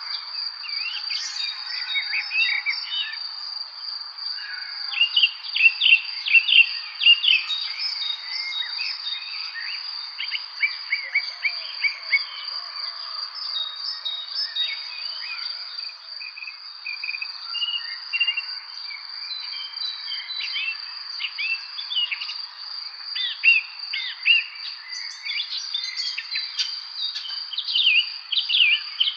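Several songbirds chirping and singing over one another in a spring evening chorus, busiest a few seconds in and again near the end, over a continuous high, even tone.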